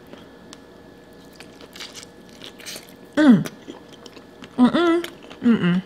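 A person chewing a sauce-soaked boiled potato and shrimp up close, with soft wet mouth noises, broken by three short wordless vocal sounds: one about three seconds in and two near the end.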